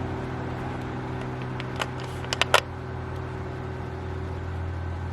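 Steady low mechanical hum, with four short clicks in quick succession around the middle, the last one the loudest.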